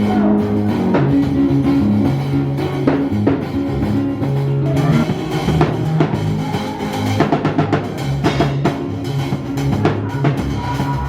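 Band music: a drum kit with bass drum keeps a steady beat under a moving bass line and sustained guitar or keyboard notes.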